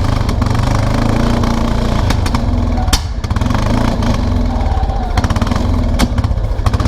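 Kawasaki Prairie 300 ATV's single-cylinder four-stroke engine running under load as the quad moves off, with a few sharp knocks along the way. The engine is running rich, which the owner puts down to a carburetor float stuck open.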